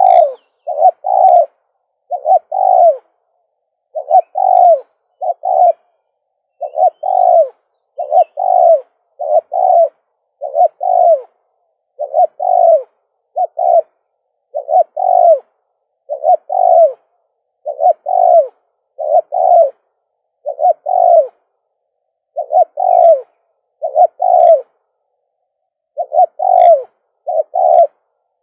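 Spotted dove cooing over and over: short phrases of two or three low coos, repeated every second or two with brief gaps. It is a caged decoy bird calling.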